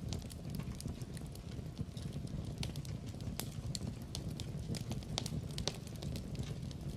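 Wood fire in a fireplace crackling: irregular sharp pops and snaps from burning logs over a steady low rumble of the flames.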